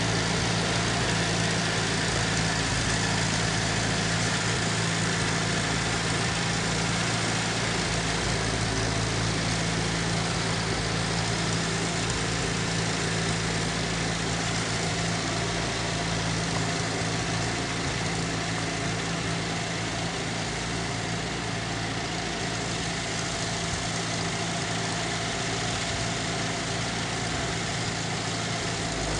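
International 2444 tractor's gasoline engine idling steadily, running on a freshly cleaned carburetor and new ignition points.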